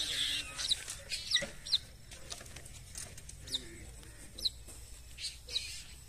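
Birds calling: short, sharp high chirps that drop in pitch, scattered about once a second, over a faint low hum.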